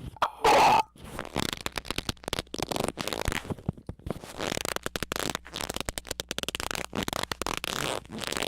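A short, loud squeak about half a second in, followed by a long run of rapid, irregular crackling and rustling clicks.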